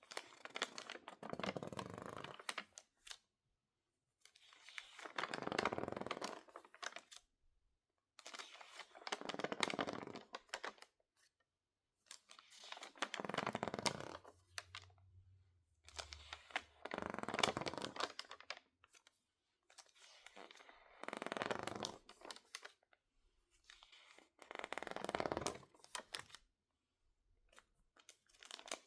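Crinkly, water-damaged magazine pages being handled, in about eight separate rustling passes of roughly two seconds each, with short quiet pauses between them.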